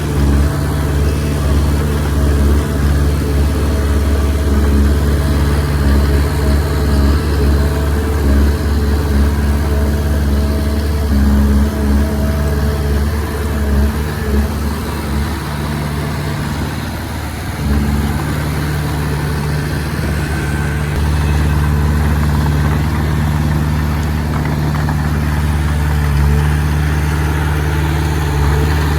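Komatsu D20P bulldozer's diesel engine running under varying load, a steady low drone. The note wavers and briefly drops a little past halfway, then settles again.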